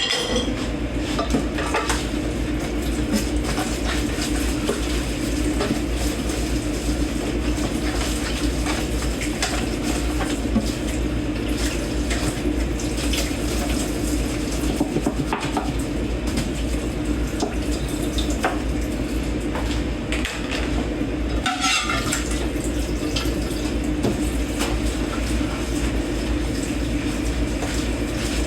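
Dishes and cutlery being hand-washed in a kitchen sink: frequent clinks and clatters of plates and forks over a steady rush of water.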